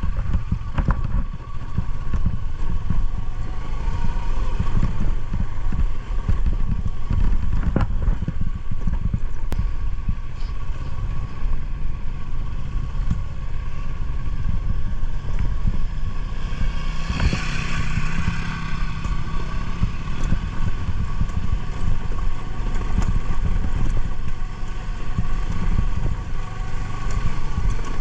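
Motorcycle engine running while riding, with a heavy, steady low rumble and some clatter. A brief louder hiss comes about seventeen seconds in.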